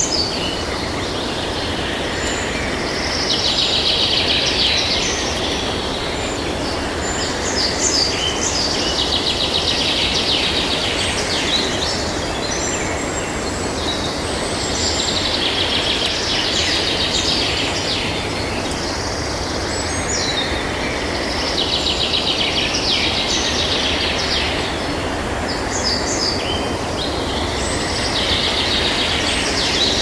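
Birds singing in rapid trilled phrases that recur about every six seconds, over a steady rushing noise.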